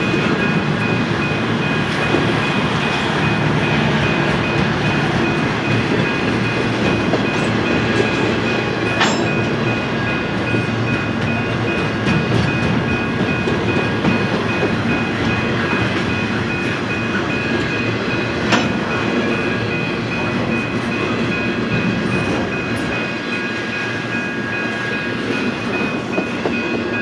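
Intermodal freight train cars rolling past: a steady loud rumble of wheels on rail with a thin high steady tone over it, and two sharp clicks, about nine and eighteen seconds in.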